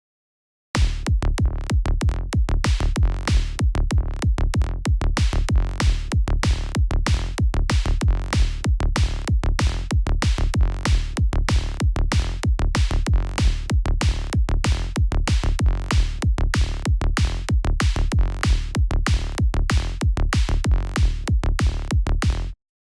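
Electronic kick drum and synth bass loop in a progressive-house style: a steady run of heavy, deep kicks and bass notes. It starts about a second in and cuts off suddenly near the end.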